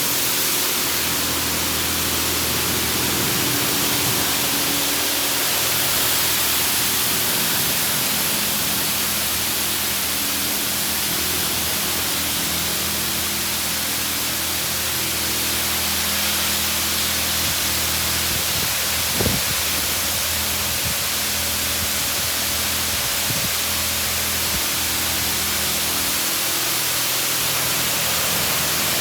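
Touchless automatic car wash spraying water against the car, heard from inside the cabin as a steady hiss, over a low machine hum. There is one sharp click about 19 seconds in.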